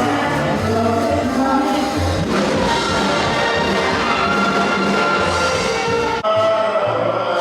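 A live band playing music, with a steady bass line under held melody notes; it breaks off abruptly for an instant about six seconds in and carries on.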